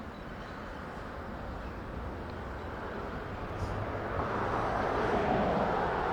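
A Staten Island Railway train approaching, a steady rumble and hiss that grows louder over the last two seconds.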